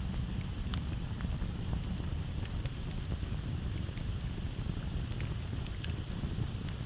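Campfire crackling: scattered sharp pops and snaps over a low, steady rumble of burning wood, with crickets in the background.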